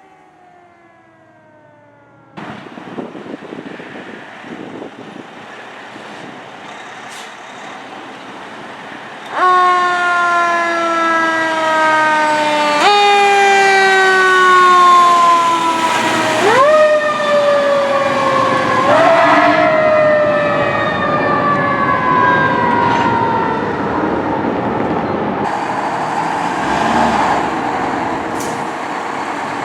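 Fire truck siren: a tone that jumps up quickly and then slowly winds down, four times over, over the rumble of the truck's engine and road noise. The siren fades out in the last few seconds while the truck noise carries on.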